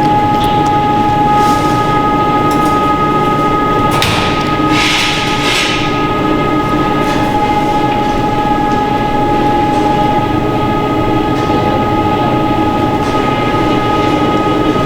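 Food-processing machinery running steadily: a continuous hum carrying two steady whining tones, with a burst of hiss about four seconds in that lasts under two seconds.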